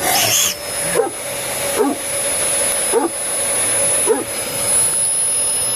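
Vacuum cleaner running with a steady high whine while a dog barks five times, about once a second.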